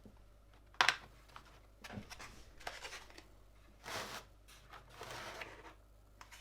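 Plastic mechanical-keyboard parts being handled and fitted: a sharp click about a second in, then irregular scraping and rubbing sounds.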